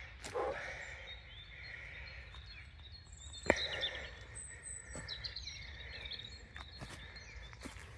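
Wild birds chirping and trilling in short scattered calls over a low steady outdoor rumble, with one sharp click about three and a half seconds in.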